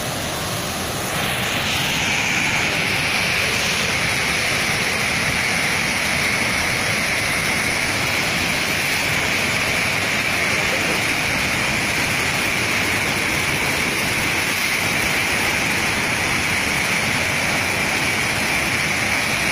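Steady roar of floodwater rushing through opened sluice shutters, growing louder about a second in.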